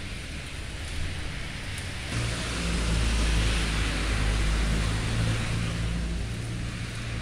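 Steady rain with a motor vehicle passing by on a wet street: a low engine hum and tyre hiss swell up about two seconds in and fade away near the end.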